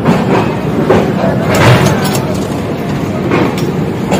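Express passenger train rolling slowly into a station, its wheels giving irregular clacks and thumps over rail joints and points above a steady rumble. The sound carries in through an open coach doorway.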